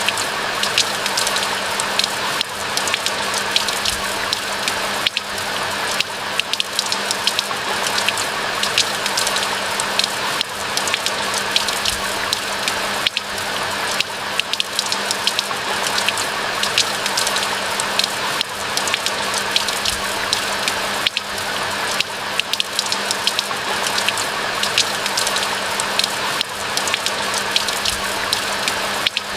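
Steady rain falling, a dense hiss of many small drop impacts, with a faint steady low hum underneath.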